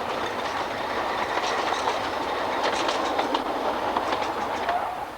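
A narrow-gauge train running past, a steady running noise with wheels clicking over rail joints, dying away near the end.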